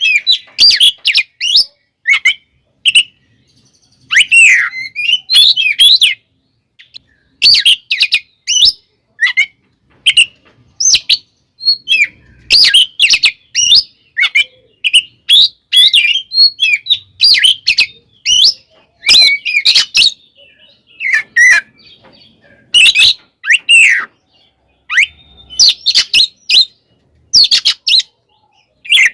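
Oriental magpie-robin (kacer) singing in its aggressive fighting mode: loud, rapid runs of varied whistles and chirps in quick bursts, separated by brief pauses.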